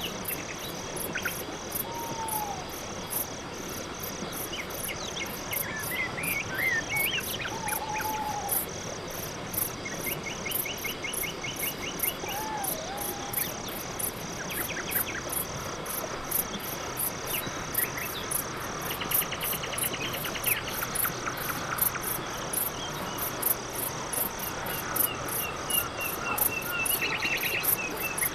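Night-time crickets chirping in a steady, even rhythm of about three high chirps a second. Short buzzy trills from other insects and a few brief falling calls from other animals come and go over it.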